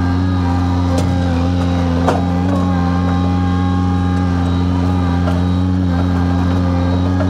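Skid steer engine running steadily at an even pitch while spreading dirt, with a short clank about two seconds in.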